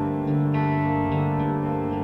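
Instrumental music: electric guitar through effects, with sustained, echoing layered tones and new notes coming in a few times.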